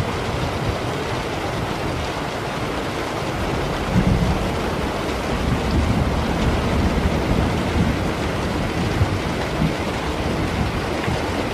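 Steady heavy rain with low rolling thunder, the rumble swelling about four seconds in.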